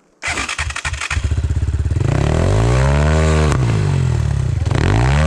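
Enduro motorcycle engine coming in abruptly just after the start, then revved up and back down, and revved again near the end, as the rider tries to power the bike out of the stream.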